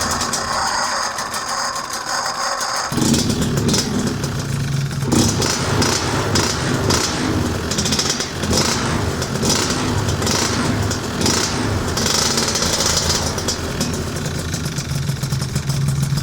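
Two-stroke Piaggio Zip SP scooter engine with a 172 cc kit, running through a PM Tuning PM59 exhaust and revved in quick irregular blips. About three seconds in, the deep low exhaust note comes in strongly.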